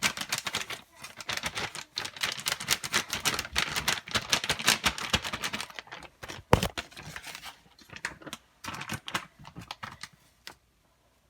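Rapid clicking, tapping and rattling of kitchen utensils against a bowl and container as curry powder is added to raw chicken, with one louder thump about six and a half seconds in, then dying away to a few faint clicks near the end.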